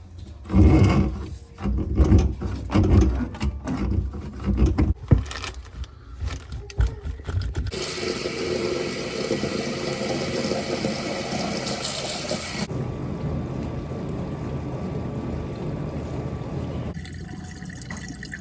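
Irregular knocking and clattering of plumbing being worked on, then water rushing out with a loud hiss for about five seconds, easing to a steadier flow that quietens near the end.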